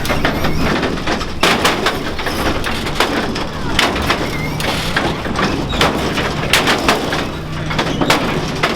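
Vehicle engines running with a steady low rumble, with many sharp clacks and knocks scattered throughout.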